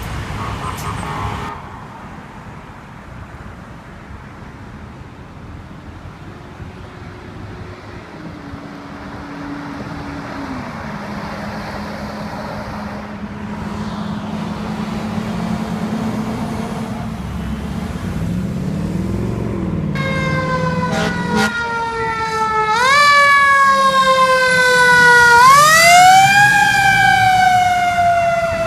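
Fire truck approaching on an emergency response: a rumble builds, and about twenty seconds in its siren starts wailing, sweeping up and down in pitch and growing louder as it nears.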